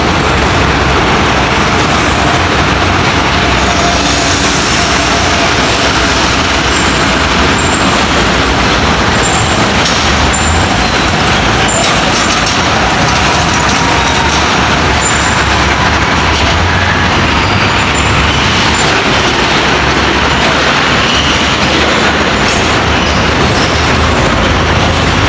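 Heavy trucks passing on a busy road, a loud, steady rush of engine and tyre noise with no let-up.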